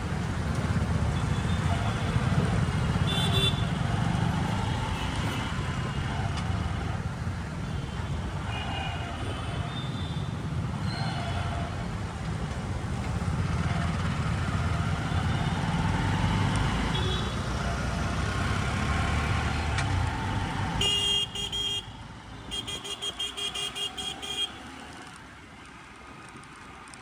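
Road traffic heard from a moving motorcycle: a steady low rumble of engine and wind noise, with vehicle horns tooting briefly several times. About 21 seconds in the rumble drops away and a quick series of horn beeps follows for a few seconds.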